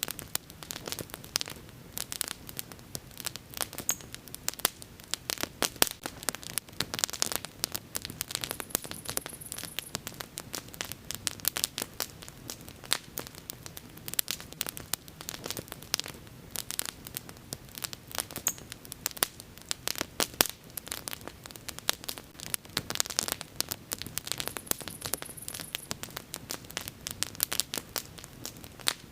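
Wood bonfire crackling: dense, irregular pops and snaps over a low hiss, with a brief high hiss twice.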